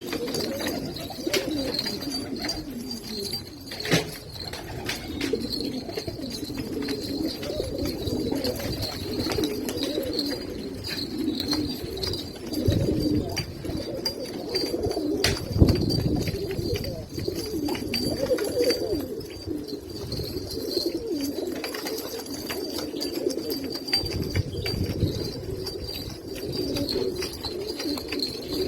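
Domestic pigeons cooing continuously, several birds overlapping, with a few sharp knocks and a faint steady high-pitched tone underneath.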